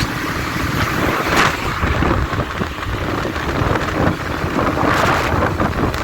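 Wind buffeting the microphone while riding: a loud, steady rushing noise, heaviest in the low end, swelling briefly about a second and a half in and again near the end.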